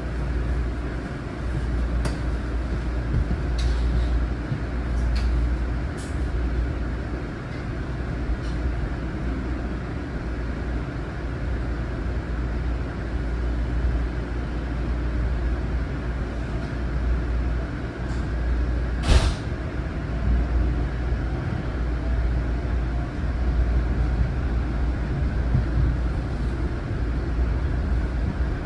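Interior of a moving Long Island Rail Road M9 electric train car: a steady low rumble of wheels on rail, with scattered light clicks and one sharp bang about nineteen seconds in. After the bang a faint whine rises in pitch.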